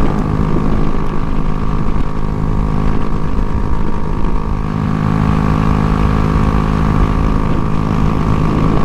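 Single-cylinder engine of a 2023 Honda Grom running steadily through an aftermarket Kemimoto exhaust whose inner core has come loose and rattles inside the can, which makes it sound awful.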